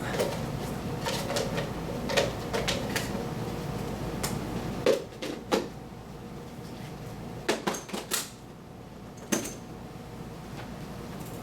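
A series of sharp clicks and knocks, scattered and in small clusters, from hard objects being handled and set down, with a few louder knocks near the middle.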